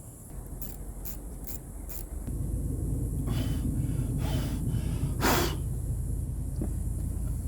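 Nissan Maxima's 3.5-litre V6 engine starting after a few clicks and settling into a steady idle about two seconds in. Several short hissing bursts sound over the idle.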